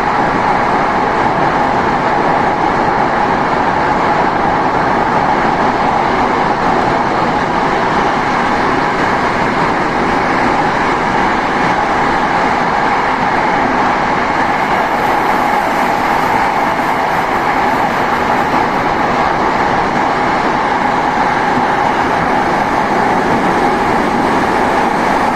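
Saitama Railway 2000 series electric train running at steady speed through a tunnel, heard from inside the car: a continuous, even rumble of wheels on rail and traction motors.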